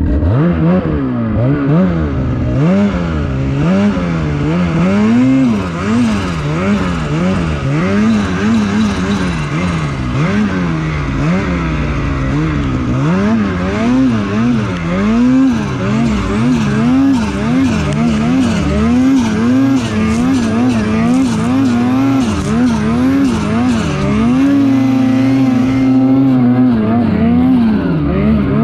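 Lynx Shredder RE snowmobile's two-stroke engine revving up and down over and over as it is ridden, its pitch rising and falling about once a second. It holds a steadier pitch for a couple of seconds near the end.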